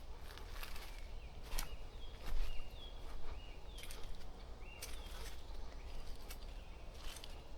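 A bird's short, high whistled call notes, about half a dozen in two to three seconds, with a few sharp crackles and a low rumble underneath.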